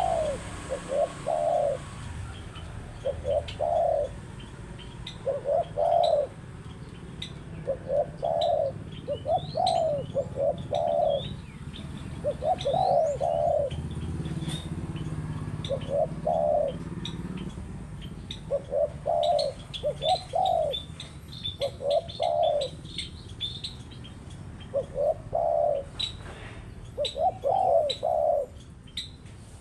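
Spotted dove cooing over and over in short phrases of two or three notes. Faint high chirps from small birds sound in the background.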